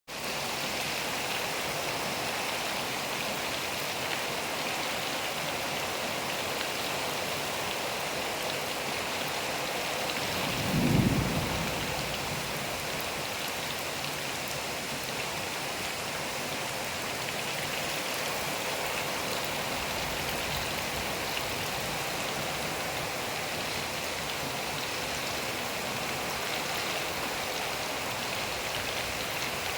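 Steady rain falling, with one low rumble of thunder that swells and fades about eleven seconds in.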